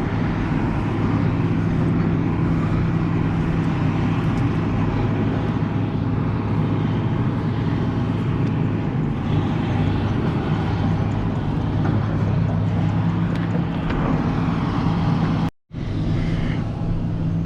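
Vehicle engine running steadily with an even low hum. It cuts out abruptly for a split second near the end.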